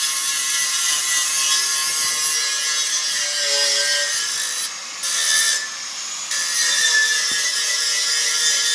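Angle grinder grinding down steel, a loud continuous abrasive hiss with a steady whine in it, easing off briefly twice partway through as the disc is lifted.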